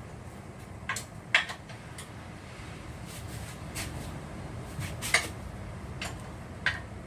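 Tools and parts handled during outboard-motor gearbox work: about five short, sharp clicks and knocks, the loudest about a second in and about five seconds in, over a steady low hum.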